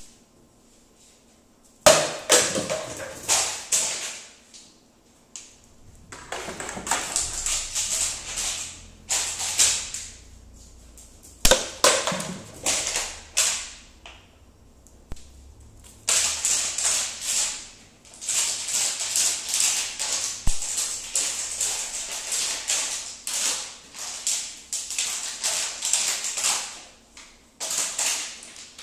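Labrador retriever moving about on a hard floor: bursts of rapid clicking and scrabbling, a few seconds at a time with short pauses between.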